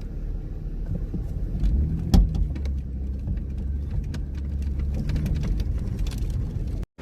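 Car on the move, heard from inside: a steady low engine and road rumble with scattered clicks and one sharp knock about two seconds in.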